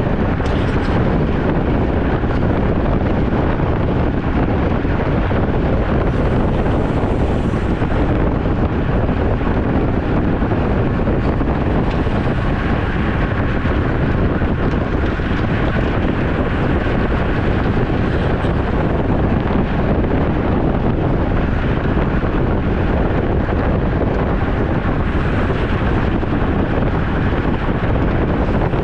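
Wind rushing over the microphone of a camera on a road bike riding at speed: a steady, loud rush.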